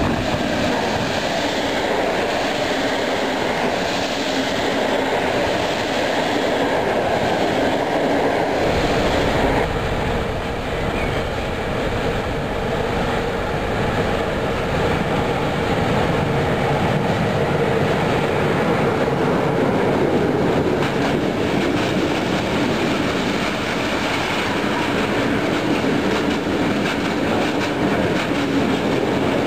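A CFR electric locomotive passes at speed hauling passenger coaches. About nine seconds in, the sound changes to a locomotive-hauled freight train of tank wagons rolling steadily past, with a steady hum over the rolling noise.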